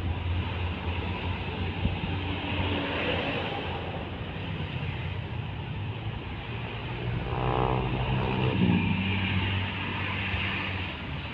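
Heavy road traffic: trucks and a bus passing with their engines running steadily. Between about seven and nine seconds in, a pitched whine falls in pitch as a vehicle goes by.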